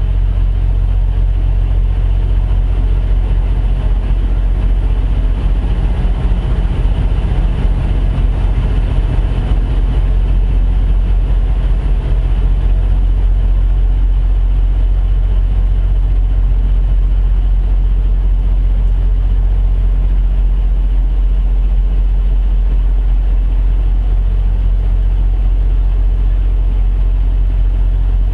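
Semi-truck diesel engine idling steadily, a constant low hum heard from inside the cab.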